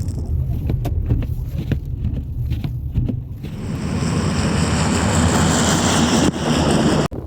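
Blizzard wind buffeting the microphone with a heavy low rumble. About halfway a broad rushing hiss builds and holds, then cuts off suddenly near the end.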